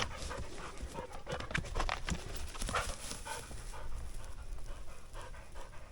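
A dog, the hikers' elderly Labrador retriever, panting, with irregular short scuffs and crunches underneath.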